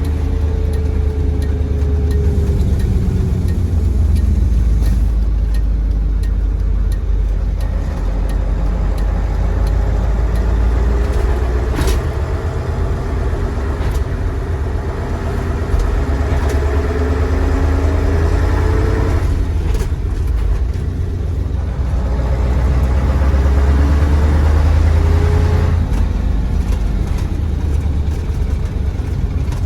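Mercedes-Benz 1729 AK truck's OM442 V8 diesel running under way with a deep, steady rumble. Its pitch climbs and falls as it pulls, drops away briefly about two-thirds through, then climbs again.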